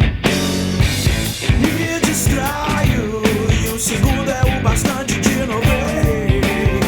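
Rock song with drums, bass and distorted guitar, a singing voice coming in about two seconds in.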